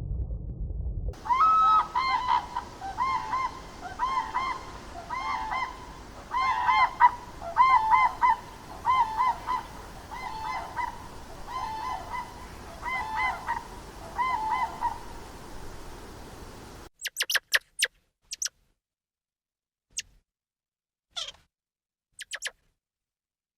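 Honking bird calls repeated in quick pairs and triplets for about fourteen seconds. The honking stops suddenly and is followed by a few short, sharp, high-pitched squeaks with silence between them.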